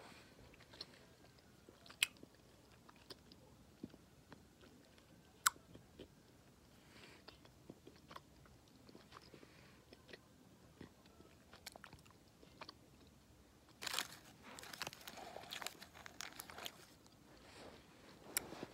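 Close-up mouth sounds of someone chewing a chewy candy: quiet smacks and clicks, two sharper ones about two and five seconds in, and a busier stretch of chewing near the end.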